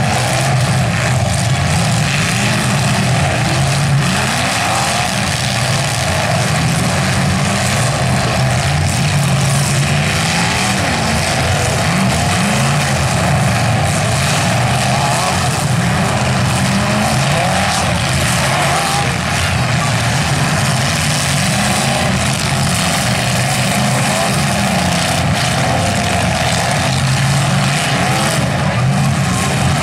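Engines of several full-size demolition derby cars running and revving at once, a loud continuous din in which engine pitches keep rising and falling.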